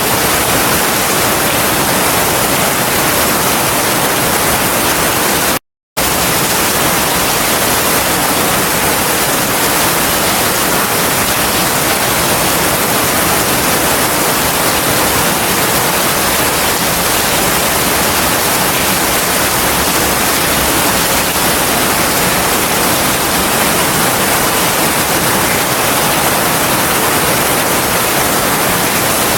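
Heavy rain falling steadily, a dense even hiss with no thunder heard. It cuts out to silence for a split second about six seconds in.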